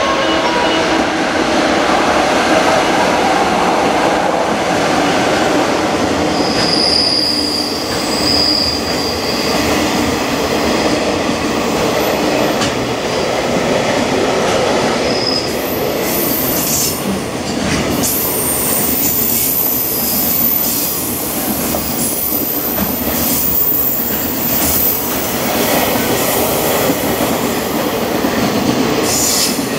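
A long JR freight container train hauled by an electric locomotive passes at speed close by. In the first few seconds the locomotive's traction motors whine over the rushing noise. Then the container wagons run past with a steady rumble of wheels, rail-joint clicks and brief high wheel squeals.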